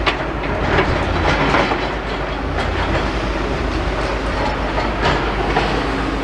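Demolition excavator working: a steady low engine drone with irregular metallic clanks and rattles as its grab handles scrap and debris.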